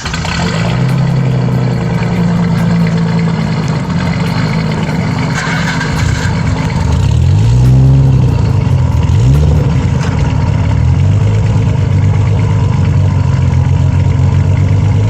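Car engine idling, with two throttle blips about halfway through, each rising and falling in pitch, before it settles back to idle.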